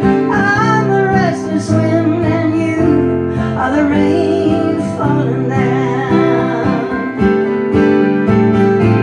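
Live acoustic folk music: acoustic guitar strumming a steady chord accompaniment under a singing voice. The voice comes in short phrases with vibrato.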